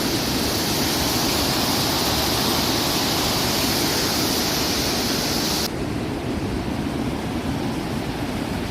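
Steady rushing of a large waterfall, Kakabeka Falls on the Kaministiquia River. About two-thirds of the way through, the hiss in the upper range drops away abruptly and the sound becomes duller.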